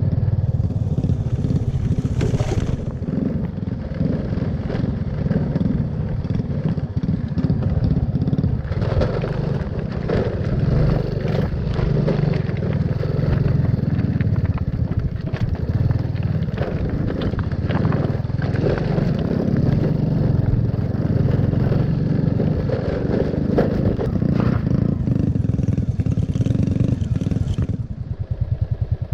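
Motorbike engine running steadily under way, with rattle and wind; near the end it drops to a quieter, evenly pulsing idle.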